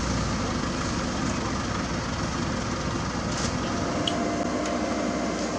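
Diesel engines of asphalt-paving machinery running steadily, with a few faint clicks in the second half.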